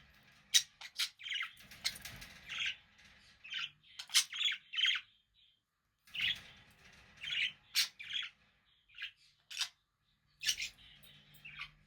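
Budgerigar (parakeet) chirping: quick runs of short chirps, squeaks and clicks, broken by brief pauses.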